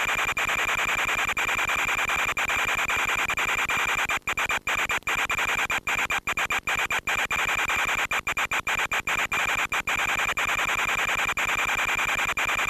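Steady rasping hiss with a fixed high whine from an RC FPV plane's onboard audio in flight. The sound cuts out in a quick series of brief dropouts through the middle.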